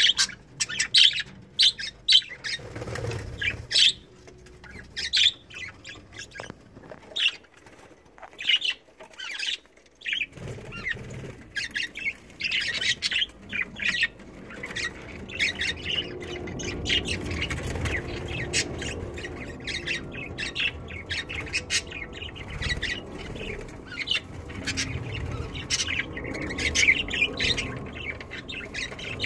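Budgerigars chirping and squawking in many short calls, with wings flapping. A lower, rougher rustling builds up about halfway through.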